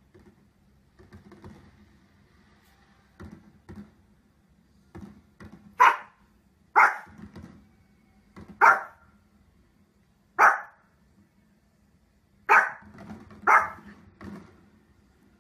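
A dog barking in single barks a second or two apart. The first few are faint, and from about halfway in come six loud barks.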